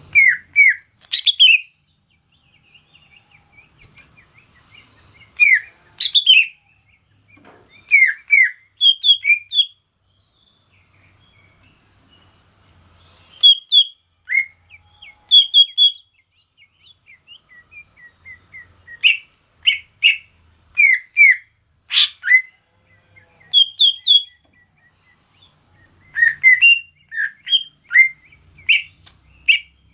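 Green leafbird (cucak ijo) singing: clusters of short, quick, slurred whistled notes, a burst every couple of seconds, over a steady high hiss.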